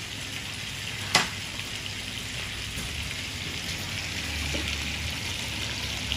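Marinated conger eel pieces frying in hot oil in a pan, a steady sizzle. A single sharp knock about a second in.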